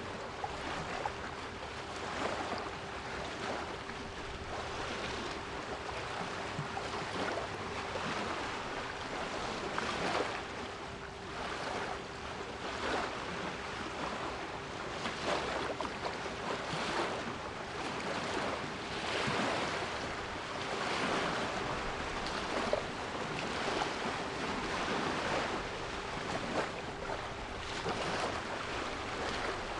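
Sea waves washing in and breaking, swelling and easing every few seconds, with a steady 396 Hz pure tone held underneath.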